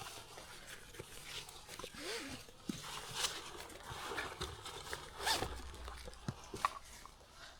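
Backpack being hoisted on and adjusted: scattered rustling and scraping of nylon pack fabric and straps, with short zipper-like rasps.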